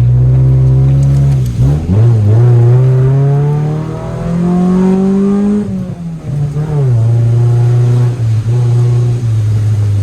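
Car engine accelerating hard through the gears: its pitch climbs, drops at a gear change about two seconds in, climbs again and drops at another shift about six seconds in, then holds steady.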